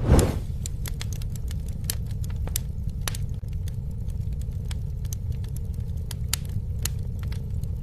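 Campfire crackling: irregular sharp pops and snaps over a steady low rumble of burning, with a louder burst right at the start.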